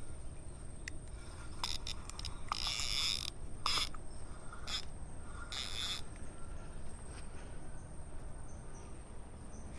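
Slingshot rifle's fishing reel being worked, making a string of short rasping bursts and clicks between about one and a half and six seconds in.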